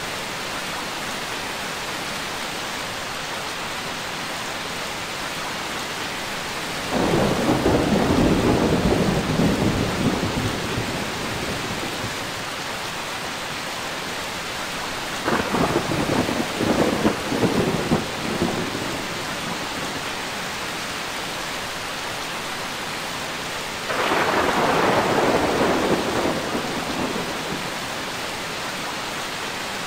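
Steady heavy rain with thunder: three rolls of thunder about eight seconds apart, the middle one made of several sharp cracks, each swelling up and then fading back into the rain.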